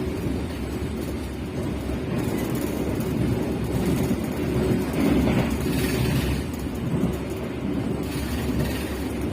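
Steady low rumble of a passenger train running along the rails, heard from inside the carriage.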